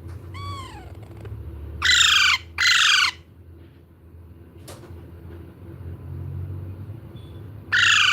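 Baby parrot squawking: a softer falling call at the start, then two loud, harsh squawks in quick succession about two seconds in, and another near the end.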